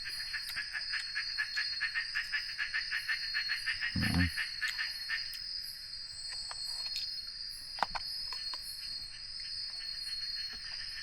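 Night insects in the forest: a steady high-pitched drone with repeating high chirps, and a fast even pulsing trill that fades out about five seconds in. A brief low sound comes about 4 s in, and a single click near 8 s.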